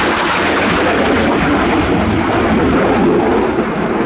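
Panavia Tornado jet's twin RB199 engines making a loud, steady roar in a fast pass, the high hiss dropping away after about three seconds as it recedes.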